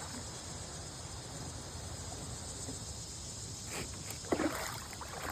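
Steady outdoor background hiss with a faint steady high whine, broken by two short sudden sounds close together a little under four seconds in.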